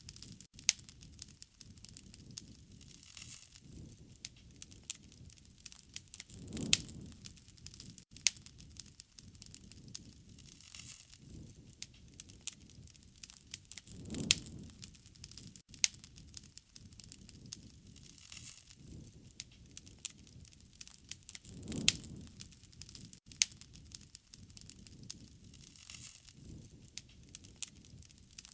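Wood fire crackling with many sharp pops and snaps over a soft hiss. A low rushing swell comes back about every seven and a half seconds.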